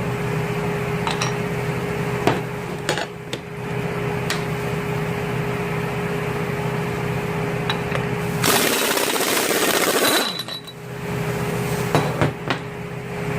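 Impact wrench hammering in a dense rapid rattle for nearly two seconds in the second half, breaking loose the stuck 2 1/8 in (54 mm) nut on the rear of a Mazda 13B rotary engine. A few sharp metal knocks of tools come earlier, over a steady hum.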